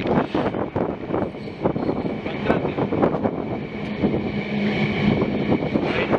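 Passenger train running along the track: a steady rumble with wind noise and many quick clacks of the wheels over the rails.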